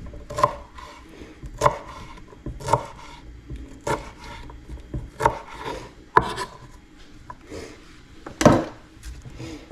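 Knife chopping a jalapeno pepper on a cutting board: a sharp knock about once a second, with softer scraping between the cuts.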